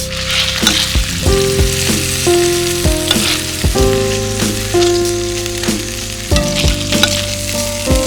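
Pork ribs sizzling and spitting in their fat over a campfire, a steady hiss with small crackles. Background music of gentle held notes plays over it, changing pitch every second or so.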